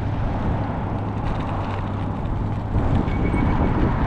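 Steady rumble of tyre and wind noise from a moving e-bike, with a low hum throughout, growing a little louder about three seconds in.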